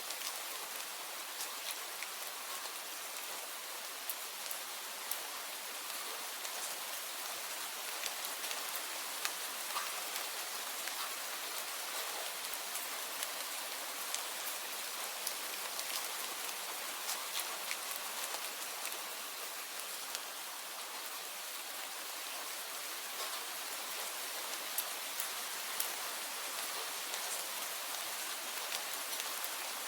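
Steady rain falling, a dense even hiss with many individual drops ticking and pattering on a surface.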